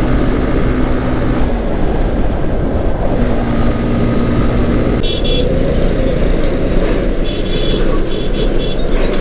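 Motorcycle riding at highway speed: a continuous rush of wind and road noise with the engine underneath. Two held steady tones sound in traffic, one in the first second and a half and another from about three to five seconds, and short high chirps come and go after about five seconds.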